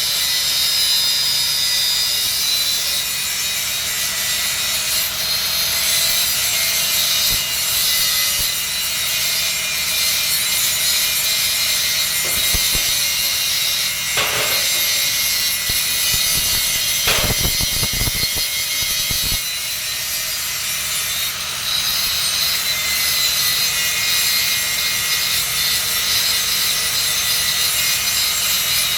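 Steady hissing and crackling of an arc welding a 3-inch schedule 80 steel pipe joint, with a few dull knocks near the middle.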